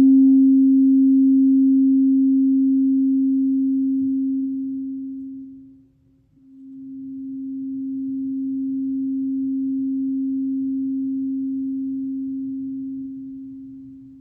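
Singing bowl sounding one steady low tone. It fades away about six seconds in, then swells up again on the same pitch and slowly fades out near the end.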